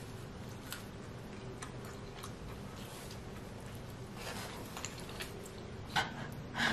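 Close-up chewing of a pepperoni pizza slice, with scattered small wet mouth clicks. Near the end come two louder sharp sounds as she bites into the slice.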